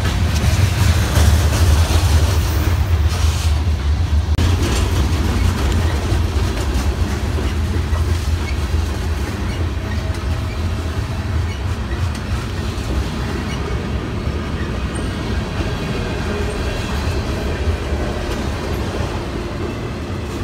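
Freight train cars rolling past: a steady rumble of steel wheels on the rails with clickety-clack over the rail joints, a little louder in the first few seconds.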